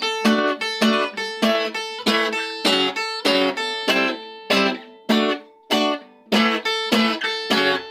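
Acoustic guitar strumming chords in a steady rhythm, about three strums a second, thinning out briefly around the middle.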